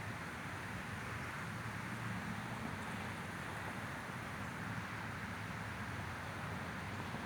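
Steady white-noise sleep sound: an even hiss with a low hum beneath it.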